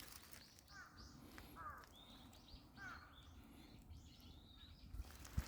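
Birds chirping: many short, quick chirps repeated throughout, faint.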